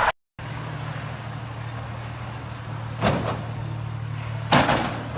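A vehicle engine running with a steady low hum, and two sharp knocks about a second and a half apart, the second louder.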